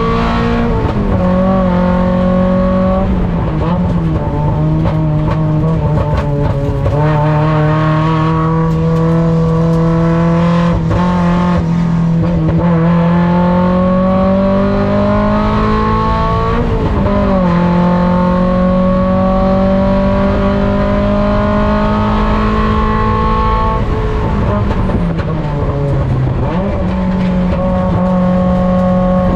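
Mazda Miata ITA race car's four-cylinder engine heard on board under hard running, its pitch climbing steadily as it pulls through the gears. The pitch drops sharply several times, about a second in, near three seconds, around seventeen seconds and again around twenty-four to twenty-six seconds, as the driver shifts or lifts.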